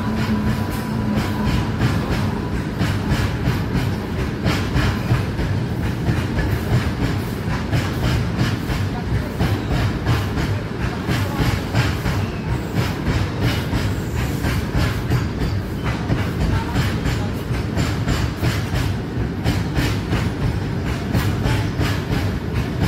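Long goods train of open freight wagons rolling past, a steady rumble with wheels clattering in repeated clicks over the rail joints.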